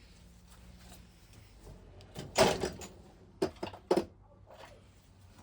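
Metal hand tools clattering as sockets are picked out and handled: one loud clatter a little over two seconds in, then two sharp clinks about a second and a half later.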